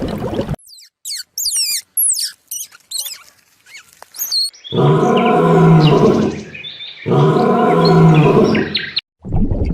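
Quick high chirping and whistling calls, then a large animal gives two long, loud, deep calls of about two seconds each, a short pause between them.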